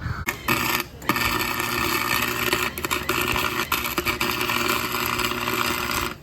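Electric welding arc crackling while the differential is welded: a short burst, a brief break about a second in, then a steady run of about five seconds that cuts off suddenly.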